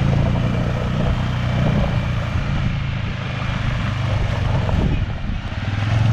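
Polaris Ranger side-by-side engine running steadily while the machine is driven, a low hum with noise over it.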